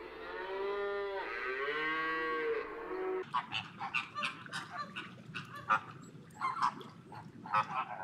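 A cow mooing in one long call that bends in pitch, cutting off about three seconds in. It gives way to a flock of flamingos honking in many short, overlapping calls.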